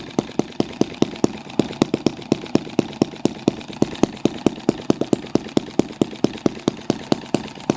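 Microcosm M25 sideshaft model engine running at a slow idle while warming up, with about five or six sharp exhaust beats a second.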